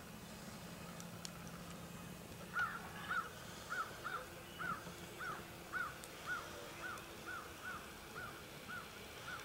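A bird giving a long run of short, evenly spaced calls, about two a second, starting a couple of seconds in and growing fainter.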